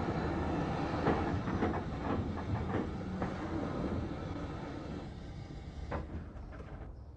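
Steam train noise: a steady rumble with irregular clanks and knocks, fading down and cutting off near the end.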